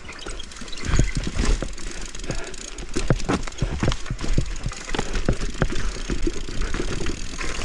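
Mountain bike clattering over rough trail: irregular knocks and rattles of the bike and its tyres over rocks and roots, with a low rumble underneath.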